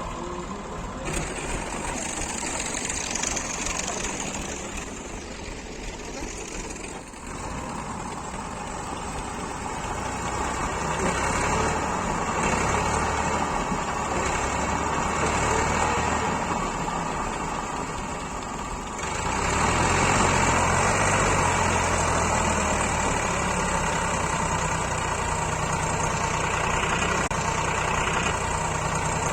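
Massey Ferguson tractor's diesel engine running under the load of a heavy mud trolley. It grows louder partway through and steps up sharply about two-thirds of the way in, running harder from then on.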